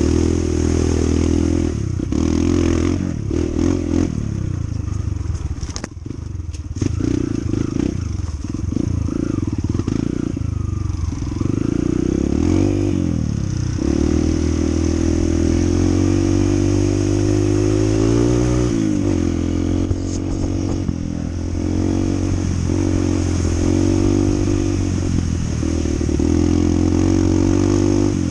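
Honda CT125 motorcycle's single-cylinder engine running while riding, its pitch rising and falling with the throttle. There are knocks and rattles a few seconds in.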